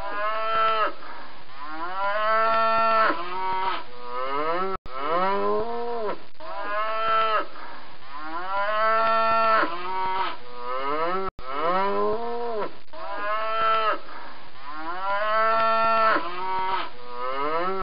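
Cow mooing over and over, loud drawn-out calls that each rise and then fall in pitch, following one another with hardly a pause.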